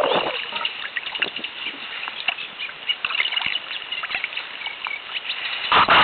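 A small reed-bed songbird, which the recordist calls a reed warbler without knowing the species, sings a fast, continuous run of short, scratchy chirping notes. A brief, louder rush of noise comes at the start and again near the end.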